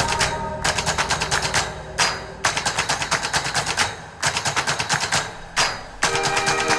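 Bursts of rapid, evenly spaced percussive hits, about eight a second, each burst lasting a second or so with short breaks between, over a held low tone.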